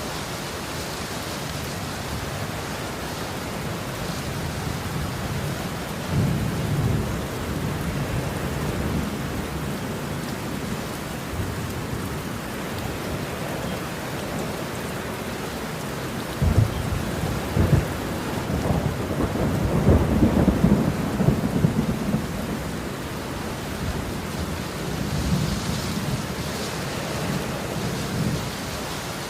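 Steady rain with rolling thunder: low rumbles swell up several times, the loudest and longest about two-thirds of the way through.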